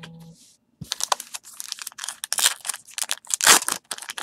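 Crinkling and tearing of a baseball-card pack wrapper being ripped open and handled, a dense run of crackles that starts about a second in.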